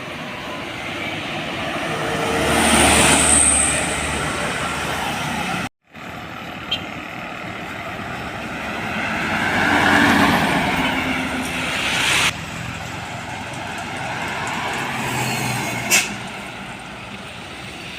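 Heavy trucks passing on a road: engine and tyre noise swells and fades as one truck goes by about three seconds in and another about ten seconds in, with a sharp cut just before six seconds.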